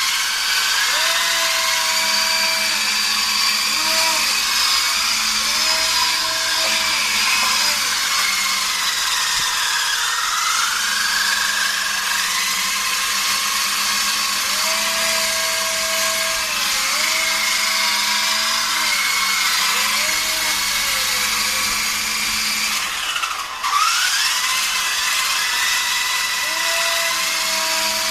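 Radio-controlled helicopter's electric motor and rotor whining, the pitch sliding up and down as the throttle changes. Late on it drops sharply and climbs back up.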